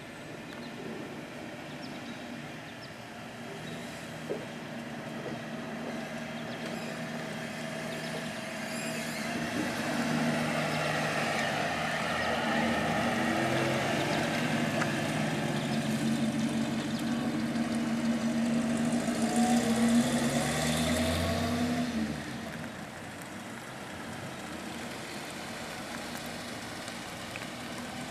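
Auburn Speedster's engine running as the car rolls slowly past, a steady note growing louder as it comes close. Near the loudest point the pitch rises briefly as it accelerates, then the sound falls off suddenly about three-quarters of the way in.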